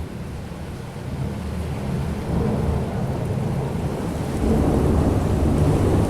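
Thunder rumbling low and rolling over steady rain; the rumble swells about two seconds in and grows louder again past the middle.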